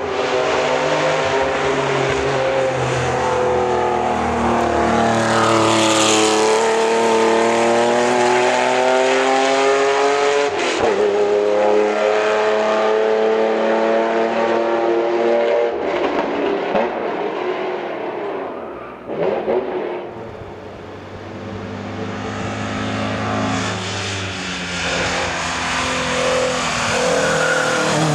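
1985 Porsche 911 Carrera's air-cooled flat-six accelerating hard up the hill, its revs climbing and dropping back with each upshift, then fading about two-thirds in. A Ford Escort RS Mk1's four-cylinder engine then builds as that car accelerates through the bend.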